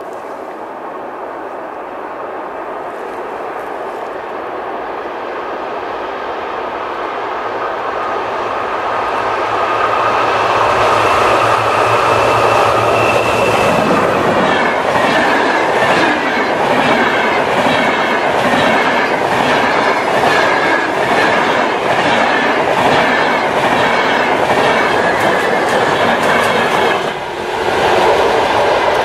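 Electric-hauled double-deck InterCity passenger train approaching and passing at speed. It grows louder over the first dozen seconds with a rushing sound and a steady whine from the locomotive. Then comes a long, rapid, regular clickety-clack of wheels over the rail joints as the double-deck coaches go by.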